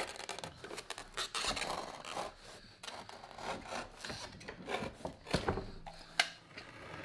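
Hand tools scraping and rasping on a leather boot sole in irregular strokes, with small clicks and one sharp click about six seconds in.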